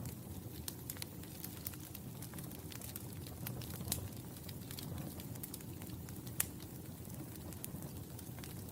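Wood fire burning in a fireplace, crackling with irregular sharp pops over a low steady rumble of flame. Two louder pops come about four seconds and six and a half seconds in.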